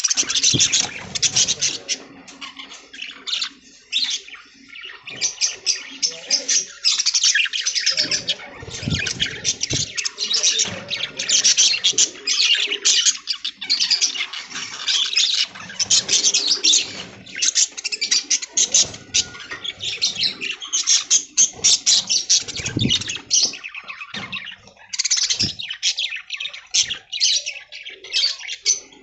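A flock of budgerigars chattering continuously, a dense stream of rapid high chirps and squawks.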